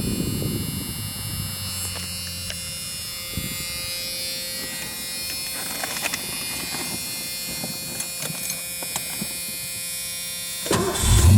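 Small electric motor whining steadily. Near the end a much louder low rumble sets in.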